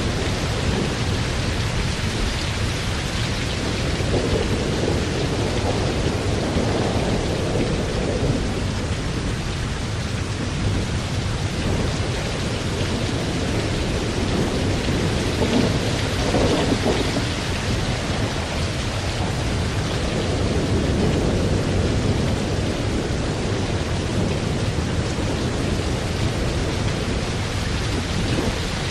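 Thunderstorm: steady heavy rain hissing, with low rolls of thunder swelling and fading several times.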